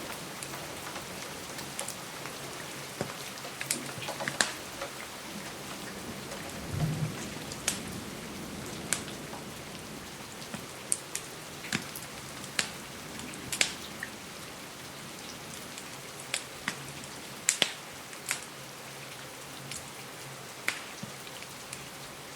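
Steady rain hiss with the sharp pops and crackles of a wood fire scattered through it, roughly one a second.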